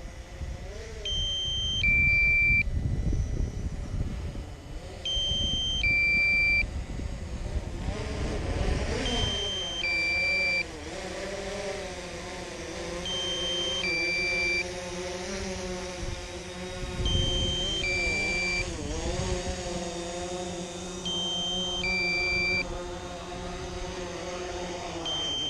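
DJI quadcopter's propellers whining as it hovers and comes down to land, the pitch dipping and rising, with wind rumbling on the microphone. A two-note low-battery alarm beeps about every four seconds: the drone is down to about 13% battery.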